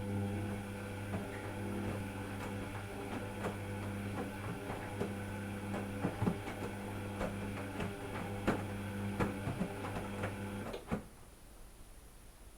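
A small machine humming steadily, with scattered irregular clicks. It cuts off with a knock about eleven seconds in.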